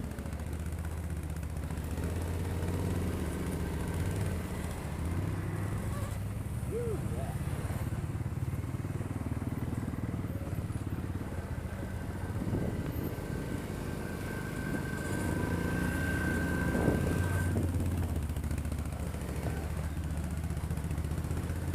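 ATV engine running steadily at low revs while the machine crawls along a trail. A faint high whine holds for a few seconds past the middle.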